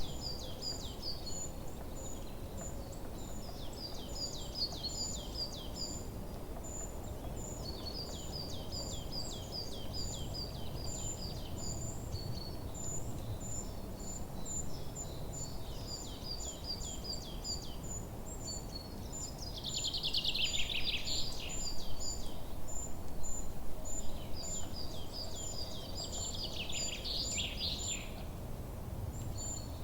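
Forest birds singing: a phrase of rapid high, down-slurred notes repeated every few seconds, a steady run of very high short chirps throughout, and louder bursts of song about twenty seconds in and again near the end, over a low steady rumble.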